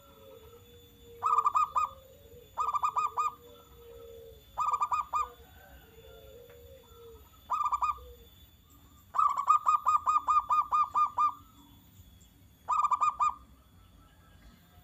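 Zebra dove (perkutut) cooing in bursts of rapid, clipped staccato notes. Several short bursts and one longer run of about a dozen notes come in the middle.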